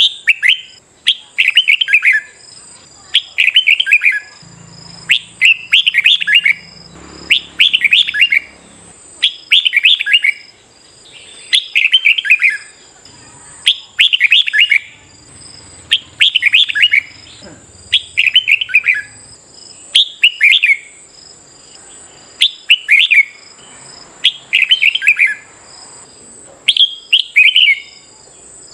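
Red-whiskered bulbul singing its competitive song: short, quick phrases of several loud notes, repeated about every second or so.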